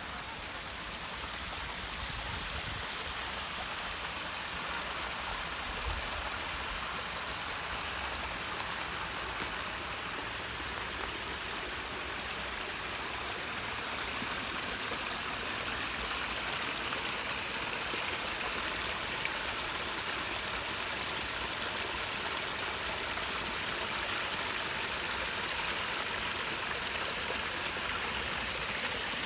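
Waterfall cascading: a steady rush of falling water, with a few sharp clicks about nine seconds in.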